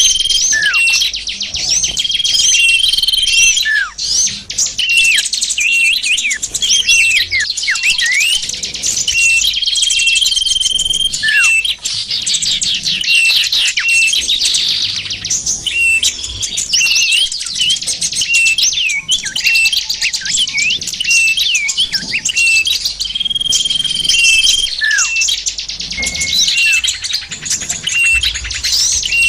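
Bird-luring recording of many small songbirds calling at once: dense, rapid high chirps and twittering with short swooping notes. A held, high whistled note about a second long comes back a few times.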